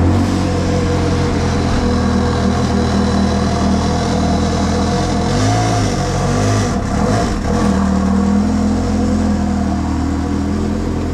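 Ferrari 360 Spider's 3.6-litre V8 through a Tubi exhaust, idling steadily just after start-up. About halfway through it gives two short throttle blips, the pitch rising and falling each time.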